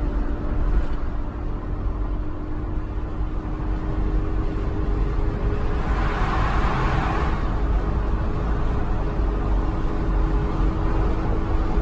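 Steady road and engine noise inside a moving car's cabin at highway speed: a low rumble with a constant hum. About six seconds in, a rushing hiss swells for a second or so and fades.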